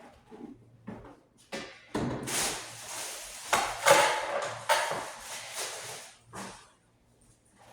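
Irregular knocks and rubbing noises of hands cleaning around a washing machine. The noises are loudest in a busy stretch through the middle and die away near the end.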